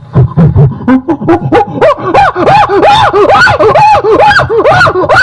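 A voice whooping in a rapid run of monkey-like hoots, each rising and falling in pitch, about three a second, after a few low thumps in the first second.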